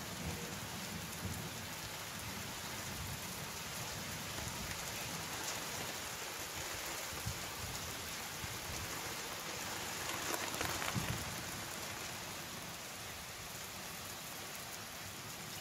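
Rain falling steadily during a thunderstorm, a little louder for a moment about ten seconds in.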